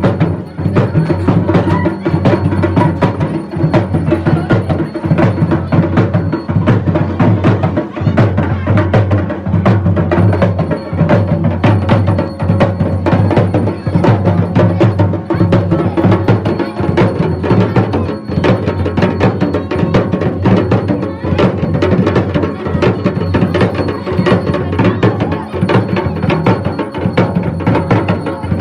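Loud, continuous traditional folk drumming with rapid, closely packed strikes, playing for a dance.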